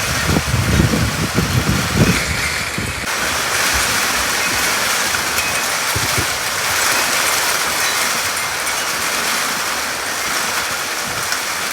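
Heavy rain pouring down in a steady, even hiss. Strong, gusty low rumbles run under it for the first three seconds and then drop away.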